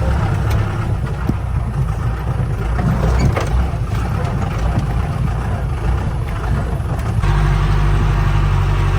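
Mahindra 4x4 jeep's engine running as it drives on a rough off-road track, a steady low rumble with a few knocks; the sound changes abruptly about seven seconds in.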